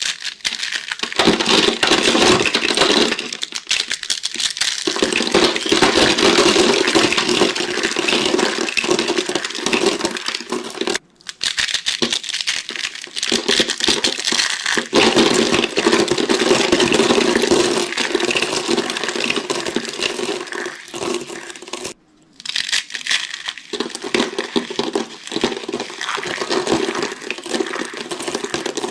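Dry soap being crushed: dense, continuous crunching and crackling, broken by two short pauses about 11 and 22 seconds in.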